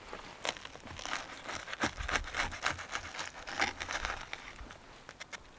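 Crinkling and rustling of something being handled, with many irregular small clicks and knocks, busiest in the middle and thinning out near the end.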